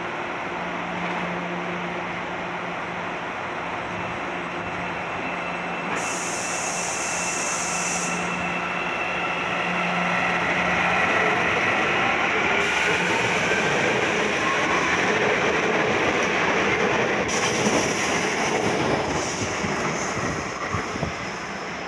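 Electric metro train running through a station, with a steady low hum at first and then a whine that glides in pitch. It grows louder from about halfway and eases off near the end.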